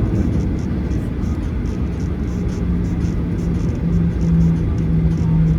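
Cabin noise of a Boeing 737-900ER taxiing, its CFM56-7B engines running at taxi power as a steady rumble. A low steady hum comes in about two seconds in.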